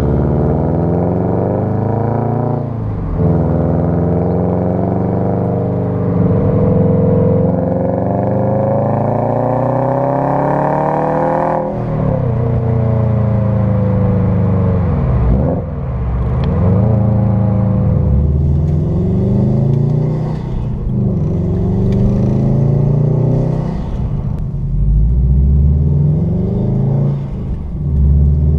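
2015 Subaru WRX STI's turbocharged 2.5-litre flat-four running through an aftermarket exhaust, accelerating hard: the revs climb in one long pull, drop sharply at a shift about twelve seconds in, then rise and fall several more times.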